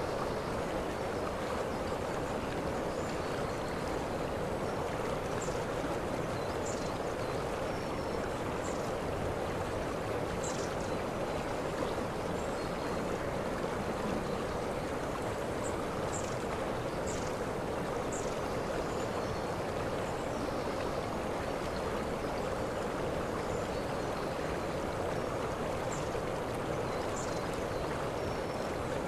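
Waterfall: steady, unbroken rush of falling water, with faint short high chirps now and then.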